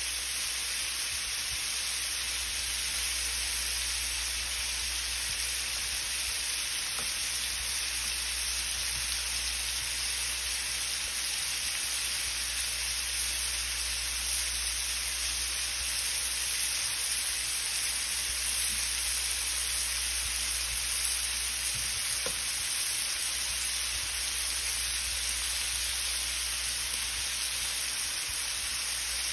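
Shrimp sautéing in hot oil in a frying pan, sizzling with a steady, even hiss.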